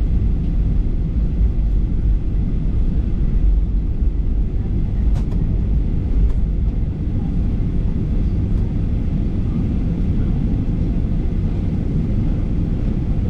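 Steady low cabin rumble of a Boeing 737-800 taxiing, its CFM56 engines running at low power with the airframe's rolling noise. A couple of faint clicks come about five and six seconds in.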